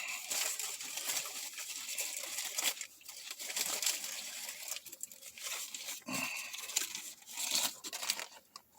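Paper wrapper of a Subway sub being unwrapped, with irregular crinkling and tearing.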